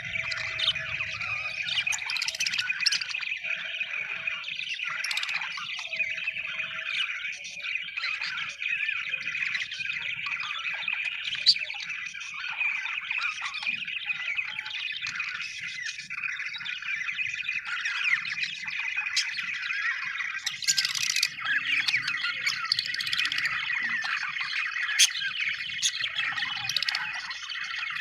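A group of budgerigars chirping and warbling continuously, many short overlapping calls with occasional sharper squawks.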